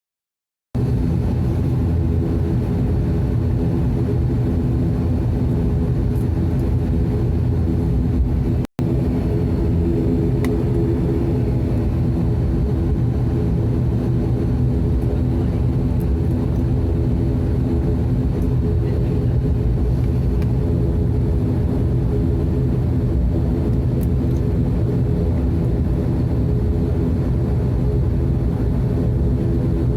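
Turboprop airliner's propeller engines running, heard from inside the cabin: a steady drone with a low rumble and an even hum. It cuts in about a second in and drops out for an instant near the tenth second.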